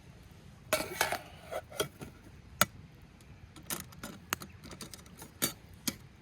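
Irregular clinks and clatters of cooking utensils against a pot and other cookware: a short cluster about a second in, one sharp loud click near the middle, then scattered lighter taps.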